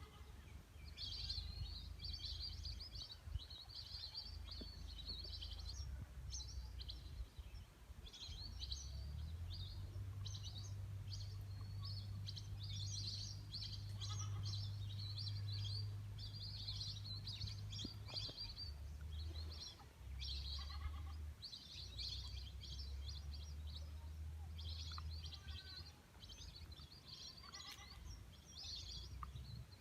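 A flock of birds chirping and calling almost without pause, many short high calls overlapping, over a steady low rumble.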